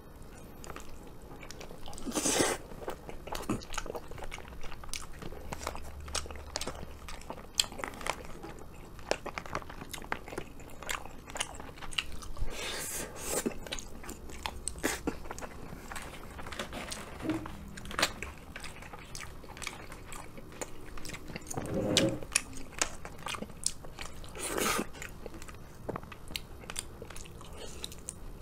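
Close-miked chewing and wet mouth sounds of a person eating beef curry with rice, a steady run of small clicks and smacks. A few louder, longer mouth sounds stand out, one about two seconds in and two more in the last third.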